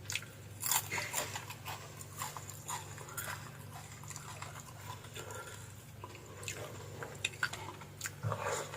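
A person chewing and biting food close to the microphone: irregular wet smacks and small crunchy clicks, over a steady low hum.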